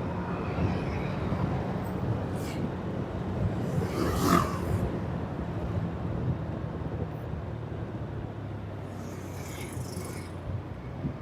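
Vehicle engine running steadily at a constant pitch while on the move, with road and traffic noise and a brief louder rush of passing traffic about four seconds in.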